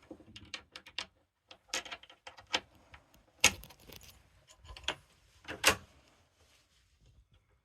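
Irregular metallic clicks and rattles of a sleeper-compartment door latch being worked, with two louder clacks about three and a half and five and a half seconds in.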